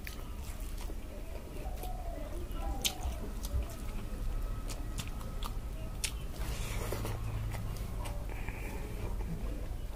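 A person chewing a mouthful of fried egg and rice close to the microphone, with irregular wet clicks and smacks of the mouth.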